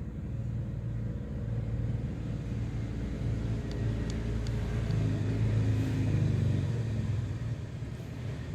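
A motor vehicle's engine running nearby as a steady low rumble that swells between about five and seven seconds in, then eases off.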